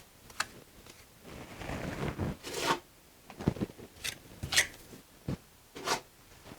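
Mason's trowel work on mortar and brick: one drawn-out scrape, then a series of short, sharp scrapes and clicks.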